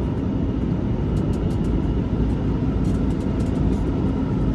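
Semi truck's diesel engine and road noise heard from inside the cab: a steady low rumble with a faint steady hum and a few light clicks as the truck rolls slowly.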